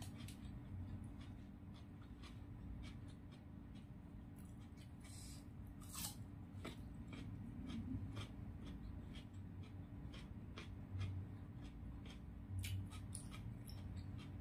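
Close-up eating sounds: irregular crisp clicks and crunches of chewing raw green eggplant and rice with the mouth, a few louder crunches standing out, over a faint steady hum.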